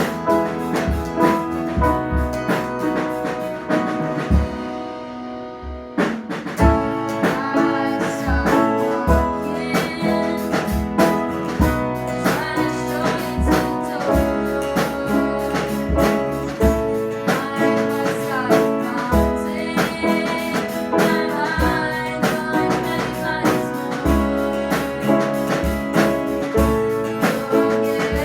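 A band playing a song: guitar and drum kit with singing. The music thins out and drops in level about four seconds in, then comes back in full with a sharp hit about six seconds in.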